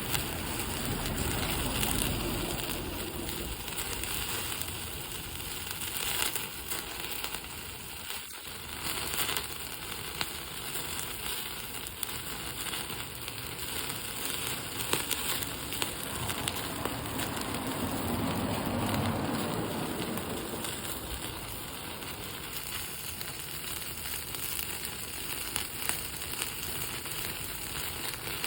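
Wood bonfire crackling with many sharp pops as horumon (offal) grills over it, the dripping fat feeding the flames. A louder rushing stretch comes about two-thirds of the way in.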